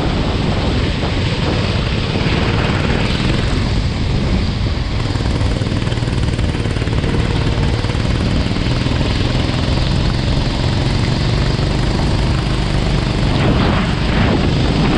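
Go-kart engine running at speed under a loud, steady rush of wind and track noise, its pitch shifting near the end as the driver changes throttle.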